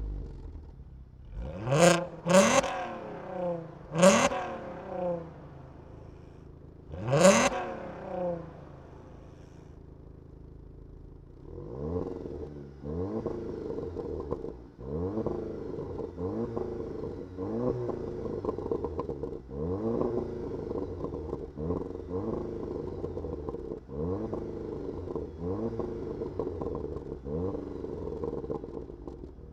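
Volkswagen Golf performance engine and exhaust revved while stationary: three sharp free revs in the first eight seconds, a few seconds of steady idle, then a long run of quick throttle blips, about one every second and a half.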